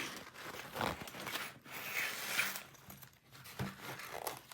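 Zipper on a fabric bird carrier being worked in a series of short, uneven pulls.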